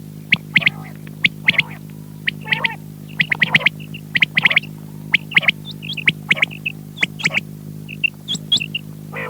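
Quail calling over and over, short bursts of sharp high notes coming about once a second, over a steady electrical hum.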